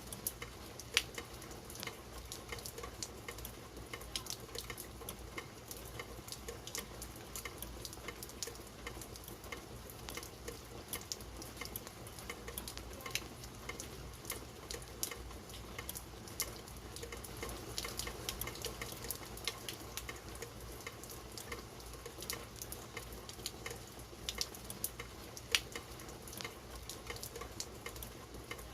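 Steady rain, with many separate drops landing as sharp, irregular ticks over a constant hiss.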